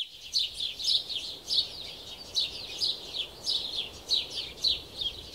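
Birds chirping: a steady run of short, high, downward-sweeping chirps, about two or three a second, over a faint steady background noise.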